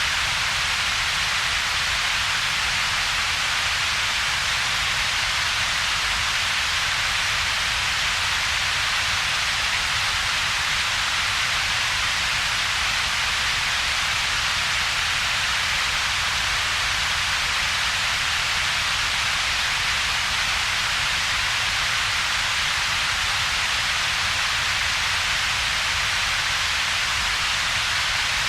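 Computer-generated double-peaked noise: a steady, even hiss strongest in the upper-middle range, together with a low rumble, and little sound in the low-middle range between them. It does not change.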